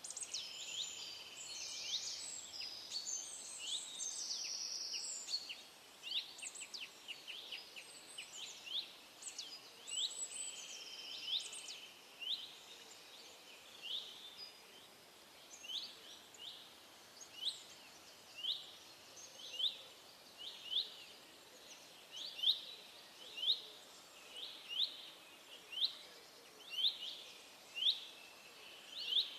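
Birdsong: several birds call over one another for the first few seconds. Then one bird repeats a short rising chirp about once a second, growing louder toward the end.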